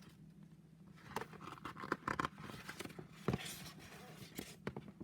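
Faint rustling, likely a book or paper being handled, with a few soft taps.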